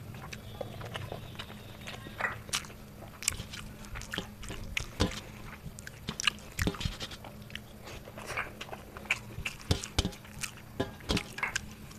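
A man chewing and smacking his lips close to the microphone as he eats rice mixed with fried greens by hand. The sound is irregular soft, wet clicks and smacks, several a second.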